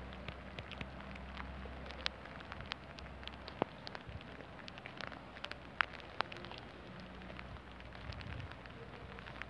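Rain falling steadily, an even hiss sprinkled with scattered sharp ticks of individual drops striking a surface.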